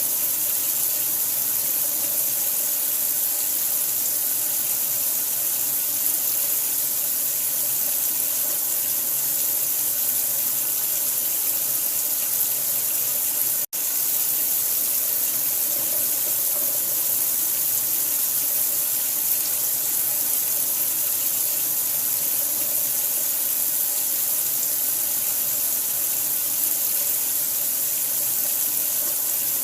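Steady running water: an even, unbroken hiss of flowing water, broken only by a split-second dropout about fourteen seconds in.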